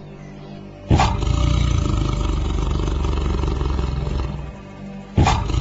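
Tiger growling: a long, loud growl starts suddenly about a second in and lasts about three seconds, and a second growl begins near the end.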